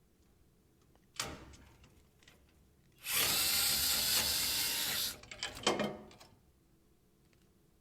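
Cordless drill/driver taking out screws while a furnace is taken apart: a short spin about a second in, then a steady run of about two seconds, followed by a few clicks and rattles.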